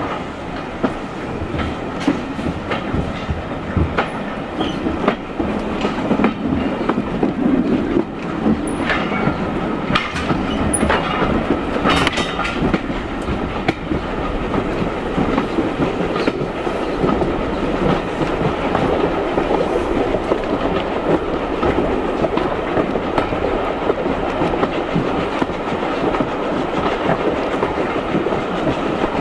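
Railway carriage running along the line: a steady rumble of wheels on rails, with repeated clickety-clack of the wheels passing over rail joints, busiest about a third of the way in.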